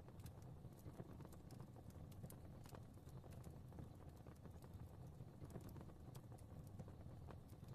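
Soft fireplace crackling: a steady low rumble of flames with small, irregular pops and snaps, several a second.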